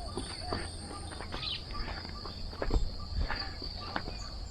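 Insects droning steadily at a high pitch, with scattered footsteps on the ground.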